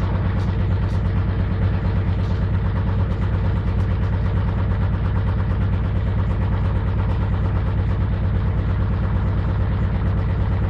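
Servis Gem M310 washing machine spinning a bedding load, the drum out of balance and the machine shaking. It gives a loud, steady drone with a fast, even low throb.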